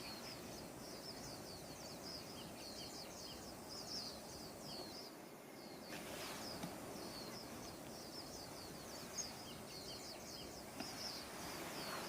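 Birds chirping rapidly and without a break, many short high falling notes, over a steady soft outdoor hiss.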